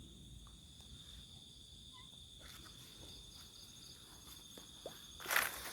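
Crickets giving a faint, steady, high-pitched drone through a night-time quiet, with a short rustle near the end.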